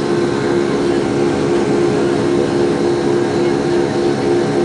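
Boeing 757-200's jet engines running at takeoff power: a steady, loud noise with a constant hum-like tone through it.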